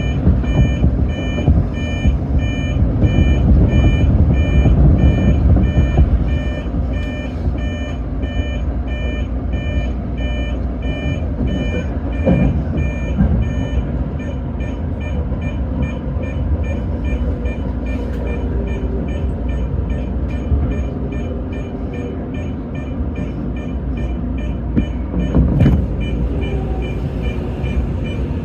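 A fast, evenly repeating electronic beep sounds over the low rumble of a commuter train, clearest in roughly the first dozen seconds.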